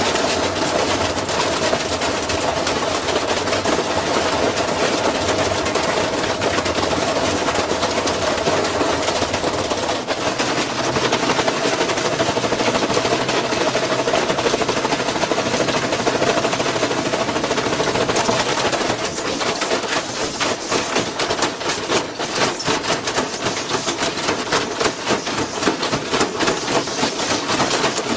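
Washing machine running with a brick tumbling loose in the drum: rapid, continuous banging and rattling over a steady whine. About two-thirds of the way through, the knocks become sharper and more separate.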